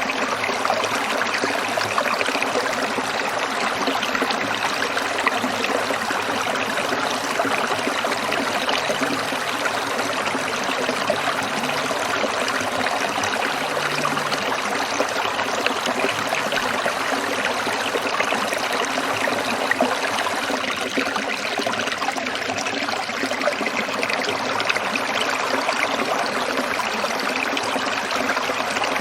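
Small stream of water trickling and babbling steadily over rocks.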